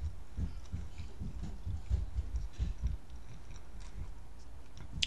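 A person chewing a soft-shell fish taco close to the microphone: a run of muffled, low jaw thumps for about three seconds, then softer. A sharp click right at the end.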